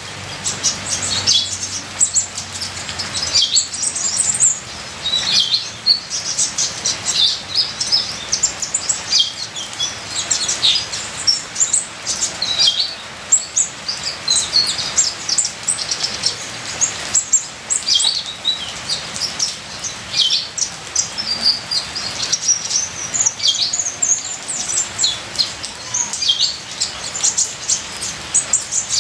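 Kolibri ninja (purple-throated sunbird) singing a long, fast run of high twittering chirps and short sweeping notes, almost without pause, over a steady hiss of trickling water.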